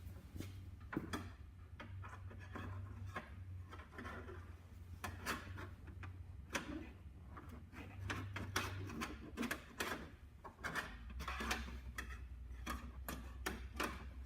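Faint, irregular clicks and scrapes of a steel paintless-dent-repair door hook tool being slid into a car door and worked against the inside of the panel to push out a dent, over a low steady hum.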